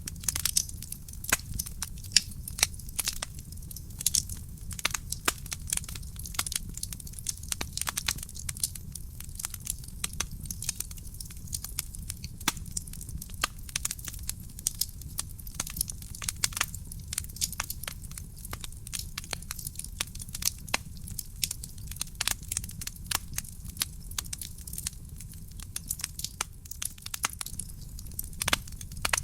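Wood fire burning in a fireplace: a steady low rumble of flames with irregular sharp crackles and pops from the burning logs, clustering in quick runs at times.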